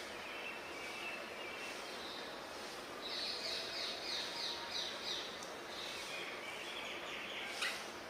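Birds calling over steady outdoor background noise: a quick run of high, short, falling notes repeated about three to four times a second, then a lower trill. There is one sharp click near the end.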